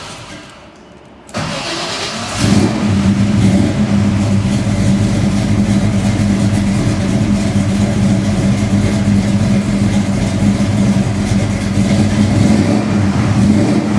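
1970 Chevelle SS 396's big-block V8, mildly built beyond stock with ceramic-coated headers, cranking over a little after a second in and catching at about two and a half seconds, then idling steadily with a deep rumble.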